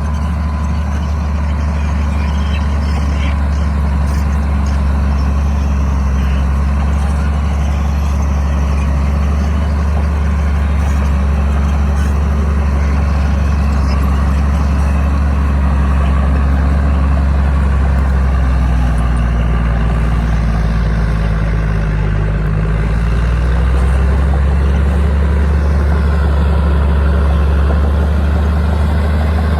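Bulldozer's diesel engine running with a deep, steady drone. Its pitch shifts a little about two-thirds of the way through, and it grows slightly louder near the end.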